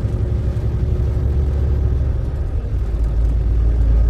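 Truck running down the road, heard from inside the cab: a steady low rumble of engine and road noise that gets somewhat louder about three seconds in.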